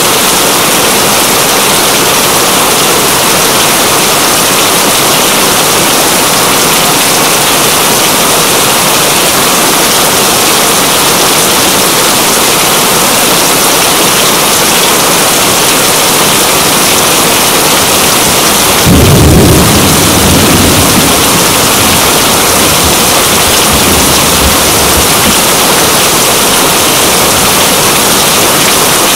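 Steady, loud rain hiss. About two-thirds of the way through comes a single low roll of thunder, which rumbles for a couple of seconds and fades.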